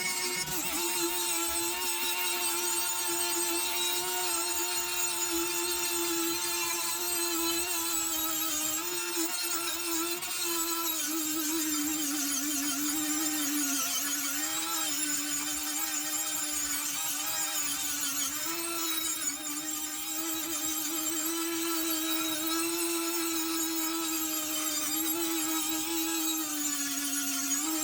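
Power tool spinning a carbide bit against a rusty, pitted steel ice claw, grinding down the pitting and high spots. Its motor gives a steady whine that sags and recovers a little in pitch as the bit is pressed into the metal.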